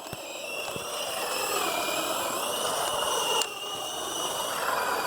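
Electric motor and gearbox of a Hosim S911 RC truck whining as it drives. The whine rises in pitch during the first second, drops off sharply about three and a half seconds in, then picks up again.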